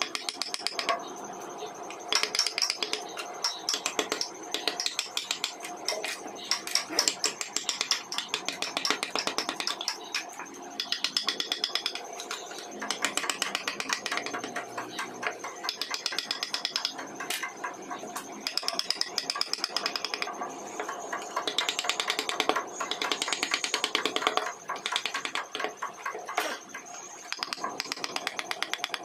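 Wood carving tool work: rapid clicking and scraping strokes on wood, in runs of a few seconds with short pauses.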